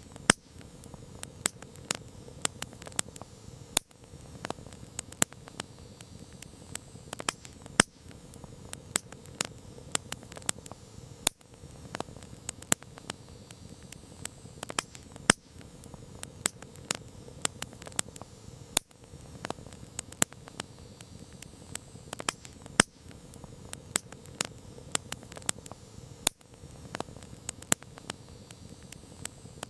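Campfire crackling: frequent, irregular sharp pops and snaps from the burning wood over a soft, low hiss of flames.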